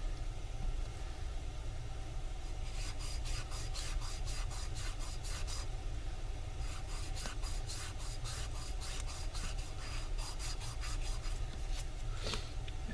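Copper refrigerant tubing being scrubbed clean with an abrasive, in quick back-and-forth scraping strokes about four a second, in two runs with a short pause between them, preparing the joint for brazing.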